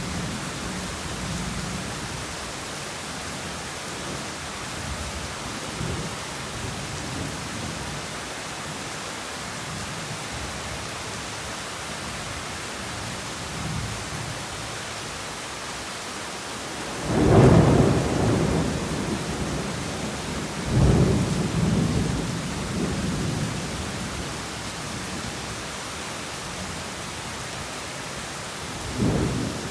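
Heavy rain falling steadily as an even hiss, with thunder rumbling low and loud about halfway through, then rolling on in further peals, and another rumble starting near the end.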